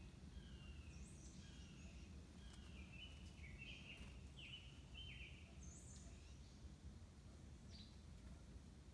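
Faint bird chirping: a run of short, falling chirps repeated every half second or so, with a few higher chirps mixed in, over a low steady background rumble.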